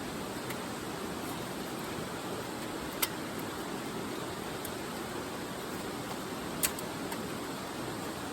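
Wood fire burning in a homemade aluminium fire pit: a steady hiss of flame with two sharp pops, about three seconds in and again past six seconds.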